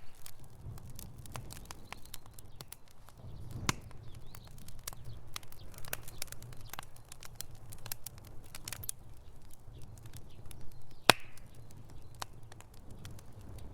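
Wood fire crackling in a fireplace: irregular sharp snaps and pops over a low steady rumble of the flames, with two louder pops, one about four seconds in and one late on.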